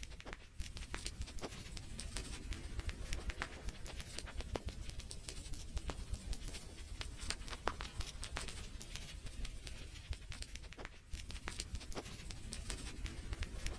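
Fireplace fire crackling: many irregular sharp pops and snaps over a low steady rumble.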